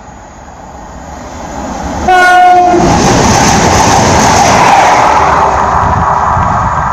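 CrossCountry passenger train approaching and passing through the station at speed. It sounds one short horn blast about two seconds in, then a loud rush of wheel and air noise as it goes by.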